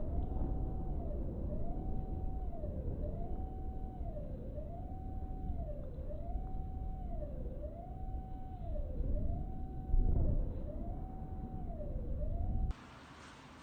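Emergency-vehicle siren wailing, its pitch rising, holding and falling about every second and a half, over a steady low rumble. A brief loud low thump comes about ten seconds in, and the sound cuts off abruptly near the end.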